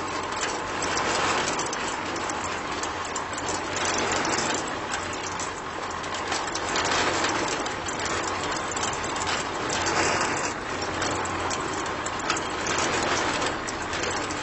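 A small motor running steadily with a grainy, rattling noise over a low hum, swelling and easing a little in loudness.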